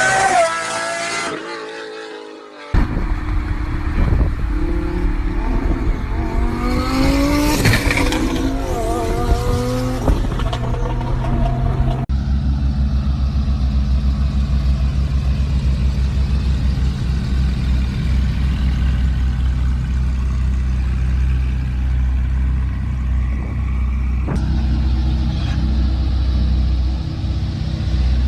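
Exotic sports cars' exhausts: an engine revs, rising and falling in pitch, and after a short cut more revving and accelerating runs follow. From about twelve seconds in there is a steady, deep exhaust rumble at low engine speed, with a change near the end.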